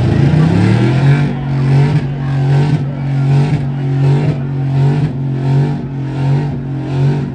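A vehicle engine revving up over the first second and then held at high revs with a steady note. The sound swells and dips regularly, about every three quarters of a second.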